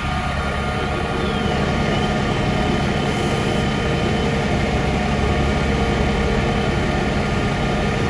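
Large diesel engine of a fire truck running steadily, a loud low drone with a steady hum of several tones.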